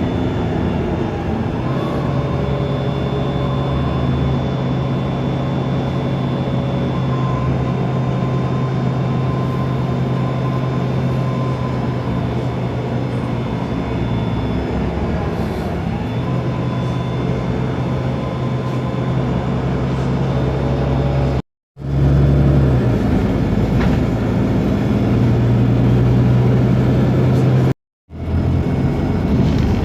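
Otokar Kent LF city bus's Ford Ecotorq diesel engine running with its Voith DIWA automatic gearbox, a steady drone whose pitch dips and picks up again about halfway through and once more later. The sound drops out for a moment twice near the end.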